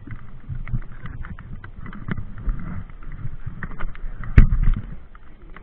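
Mountain bike rattling and clattering over rough trail, with irregular knocks and a heavy thump about four and a half seconds in.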